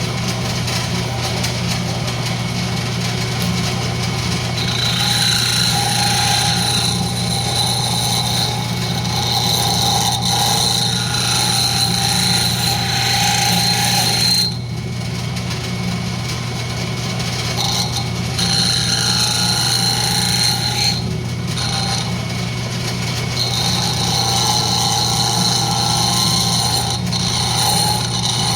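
Wood lathe running with a steady low hum while a turning tool cuts the spinning rosewood blank, making a high whine in stretches of several seconds. The cutting stops briefly about halfway through and again about two-thirds through.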